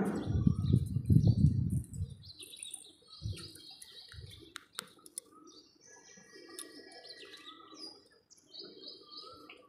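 Small birds chirping and tweeting in the background, short high calls scattered throughout. For about the first two seconds a louder low rustling noise covers them.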